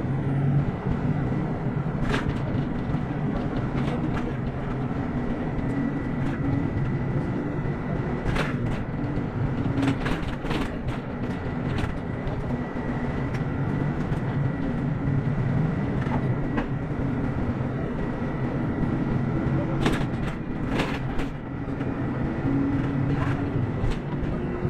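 Moving bus heard from inside the cabin: a steady engine rumble with a low drone, broken by scattered short rattles and clicks.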